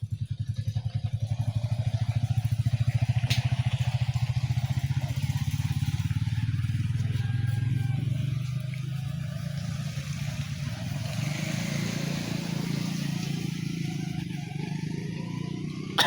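A vehicle engine running close by with an even, pulsing beat; it grows louder over the first couple of seconds and eases off somewhat about halfway through.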